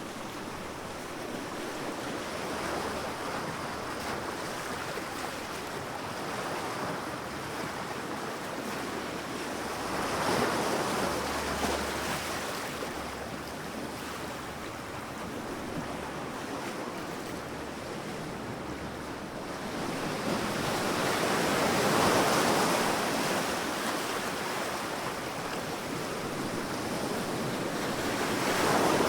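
Sea waves breaking on a beach, the surf swelling and washing in about every ten seconds over a steady hiss, with the loudest wash a little past two-thirds through.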